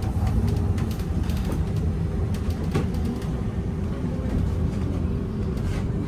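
Inside a moving VMZ Avangard trolleybus: a steady low rumble of tyres and running gear, a faint steady hum and scattered light rattles and clicks.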